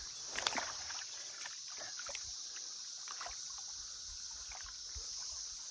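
Steady high-pitched drone of a cicada chorus, with light splashing and dripping water over it, most of it about half a second in.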